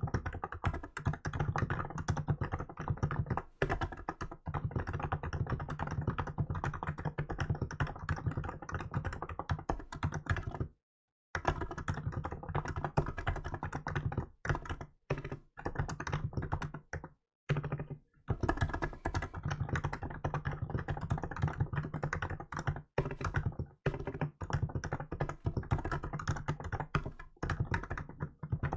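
Continuous fast typing on a Hansung GK868B electrostatic capacitive (non-contact) keyboard with milk keycaps: a dense run of keystrokes with two short breaks, about eleven seconds in and again about six seconds later.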